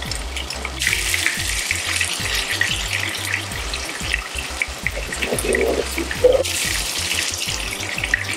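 Food sizzling in a frying pan and a seafood boil bubbling on the stove: a dense hiss that starts about a second in and breaks off briefly near the end. Quiet background music with a low beat runs underneath.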